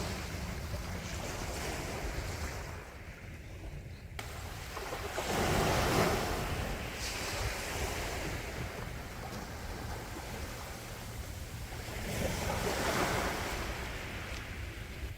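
Sea waves breaking and washing onto the shore, two swells rising and falling in turn over a steady low rumble, with some wind on the microphone.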